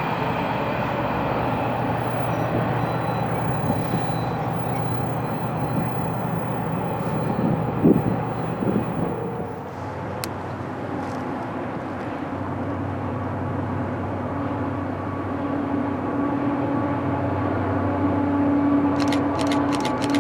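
Freight train rumbling past with steady rolling noise, easing off about halfway through. A steady low engine drone then builds, with a quick run of ticks near the end.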